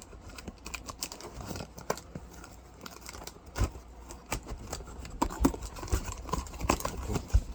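Handling noises of packing: crinkling plastic and cardboard being handled, with scattered taps and a few dull knocks as a wrapped tissue case with cardboard corner guards is fitted into a cardboard box.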